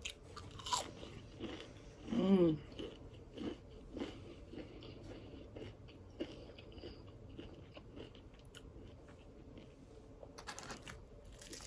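Close-up chewing and crunching of crispy fried catfish, with irregular crackles and mouth clicks. A short hum of the voice comes about two seconds in.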